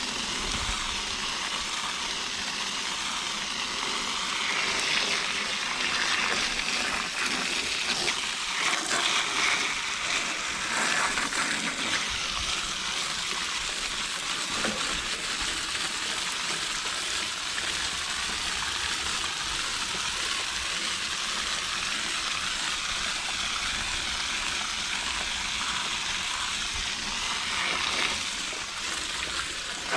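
Water from a garden hose spray nozzle hitting an air-conditioner condenser's coil fins: a steady spattering hiss, louder for a stretch in the first half.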